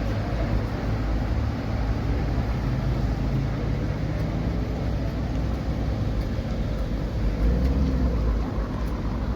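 Motor vehicle engine running with a steady low rumble that swells briefly about seven and a half seconds in.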